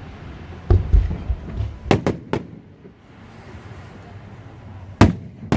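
Fireworks bursting in irregular booms: a cluster of bangs about one to two and a half seconds in, a lull, then two more sharp bursts near the end, each followed by a low rumble.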